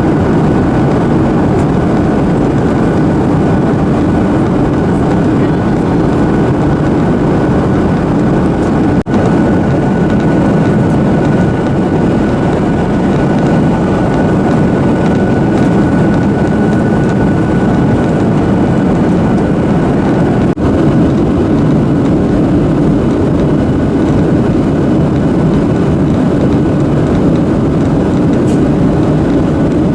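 Steady cabin roar inside a Boeing 737-800 airliner in flight on descent: engine and airflow noise, with a faint steady whine over it. The level dips very briefly twice, about nine and twenty seconds in.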